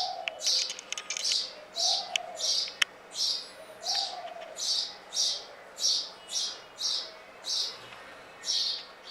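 A small bird chirping over and over, about two short, high chirps a second, with a few faint clicks in the first three seconds and three short, lower calls in the first half.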